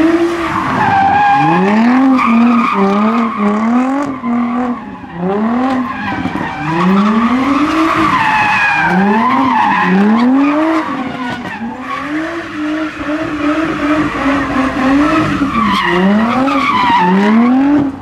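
Car engine revving hard again and again, the pitch climbing and falling about once a second, while its tires squeal and skid.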